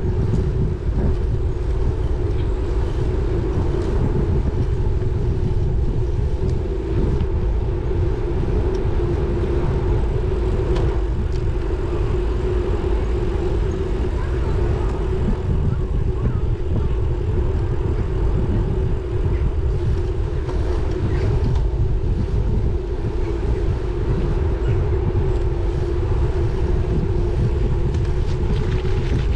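Steady wind rush and road noise while riding a road bike, with a constant low rumble and a steady hum, no distinct events.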